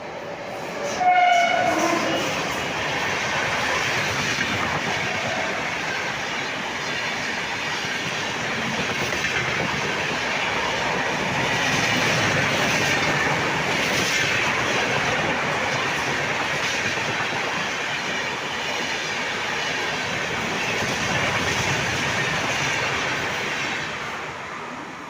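An Indian Railways train sounds a short horn blast about a second in, then passes by with a loud, steady rumble of wheels on the rails that lasts over twenty seconds and fades near the end.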